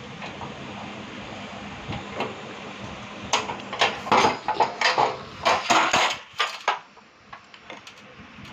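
Metal gas-stove parts clinking and knocking as they are handled and fitted, with a busy run of clatter in the middle that dies away near the end.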